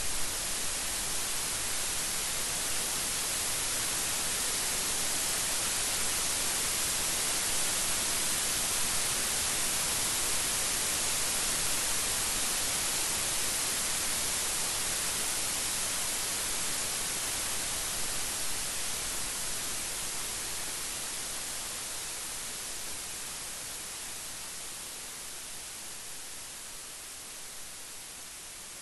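Steady heavy rain, an even hiss, gradually fading in the last third.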